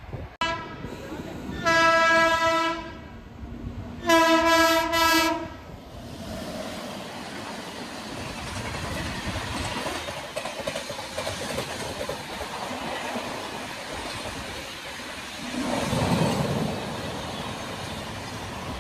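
Train horn sounds twice, the second blast broken into short pulses. An express train then runs past with a steady rushing noise and wheel clatter, swelling louder briefly near the end.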